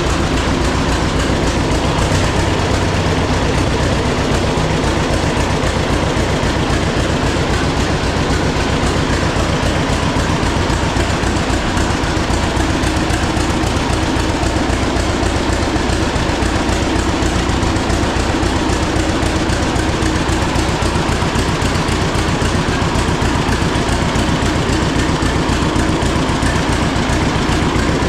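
1936 John Deere A's two-cylinder engine running steadily with its even, rapid popping beat, warming up after a cold start.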